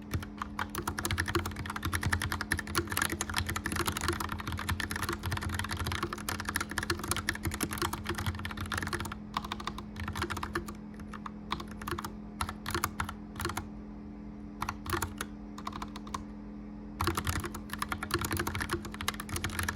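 Mechanical keyboard being typed on in fast clicky runs, with a few brief pauses, over the steady hum of a gas fireplace fan.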